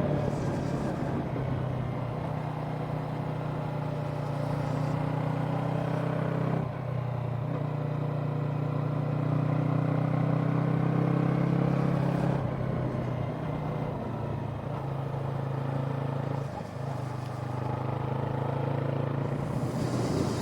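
Yamaha YZF-R parallel-twin sport bike engine running steadily under way, heard from the rider's helmet camera, with its note dropping briefly three times. Low wind rumble on the microphone underneath.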